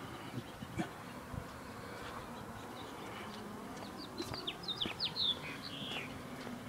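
A small songbird chirping a quick run of short, high, falling notes about four seconds in, over soft footsteps on a concrete sidewalk.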